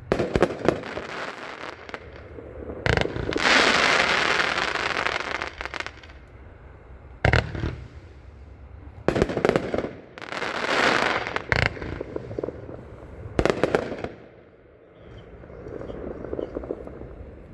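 A 25-shot consumer fireworks cake firing: a series of sharp bangs at uneven intervals, some followed by a couple of seconds of dense crackling, about three seconds in and again about nine seconds in.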